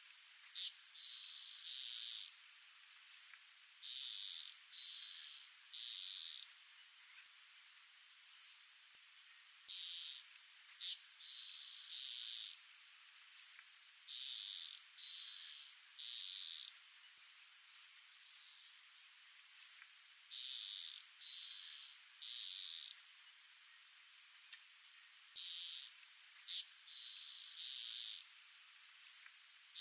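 Field crickets and other insects calling: a steady high pulsing trill underneath, with groups of three or four louder buzzy calls that come back every four to six seconds.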